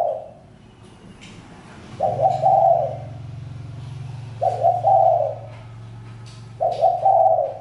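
Spotted dove cooing: three repeated coo phrases about two seconds apart, each made of a few notes, over a faint low steady hum.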